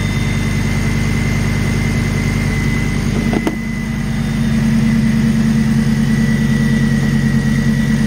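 Car engine idling steadily, just brought back to life by a jump start after a dead battery, with a thin high steady whine over it. There is a brief click about three and a half seconds in, and the idle grows a little louder soon after.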